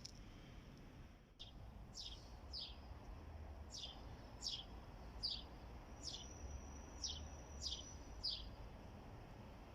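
A bird calling: a series of short, high chirps, each sliding downward, repeated about once or twice a second, with a thin steady high whistle held for about two seconds midway.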